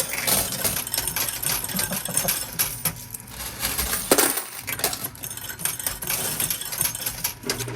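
Coins clinking and clattering in a coin pusher arcade machine, a run of many small metallic clicks with one louder clatter about four seconds in.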